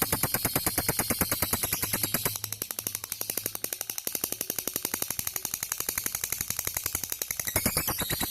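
Lovebird's long ngekek: a rapid, unbroken chattering trill of sharp notes, about nine a second. It drops in level a little after two seconds in and grows louder again near the end.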